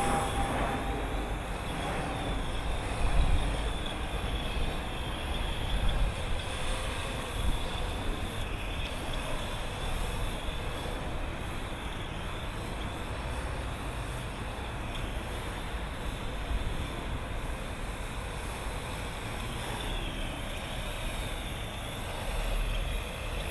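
Wind buffeting the microphone in gusts, over the faint, wavering whine of a Parrot AR.Drone quadcopter's electric rotors in flight.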